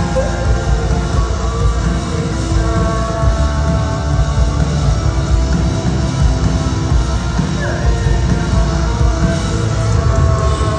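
A rock band playing live and loudly, with held notes over heavy bass and drums.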